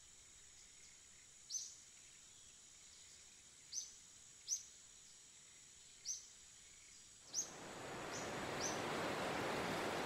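Birds chirping in short single calls every second or two over a faint steady high tone. About seven seconds in, a steady rushing noise rises and holds.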